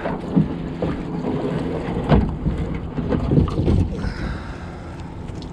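A crab pot being handled on a kayak: several knocks and rattles from the pot and the crabs in it, over wind on the microphone.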